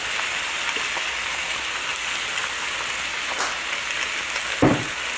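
Stir-fried wide rice noodles, Chinese kale and pork sizzling steadily in a hot wok. A single knock comes about four and a half seconds in.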